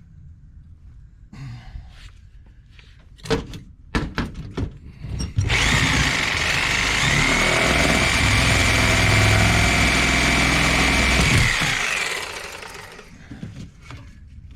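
A few sharp knocks, then an electric power tool starts abruptly and runs loud for about six seconds with a steady high whine. It then winds down as the motor coasts to a stop.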